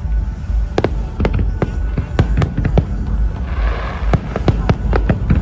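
Aerial fireworks going off: a rapid, irregular string of sharp bangs and cracks over a continuous low rumble, with a short hissing swell about three and a half seconds in.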